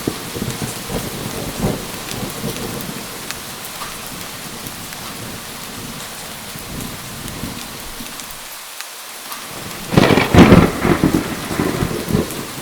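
Steady heavy rain falling, with a loud crack of thunder about ten seconds in that rumbles on for a couple of seconds.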